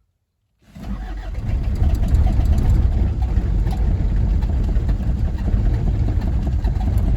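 Starter cranking the 1981 Isuzu Pup's 2.2-litre C223 diesel engine, starting about a second in and running on steadily without it catching. It is a hard cold start, which the owner puts down partly to a leak at the injection pump's cold start device.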